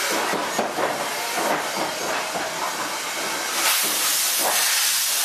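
Steam locomotive pulling out of a station: loud steam hissing with exhaust beats in the first couple of seconds, then a louder rush of steam about three and a half seconds in.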